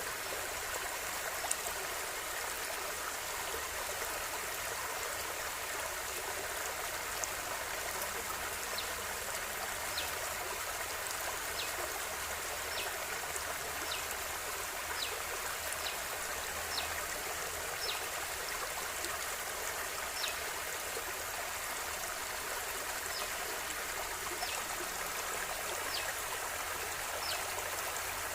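River water flowing steadily, an even rushing and babbling, with short high-pitched ticks scattered through it every second or two.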